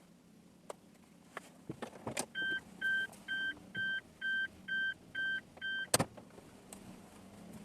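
Eight short electronic beeps, about two a second, from an in-car beeper such as the dashcam or the car's warning chime, with a click just before them and a sharper click right after.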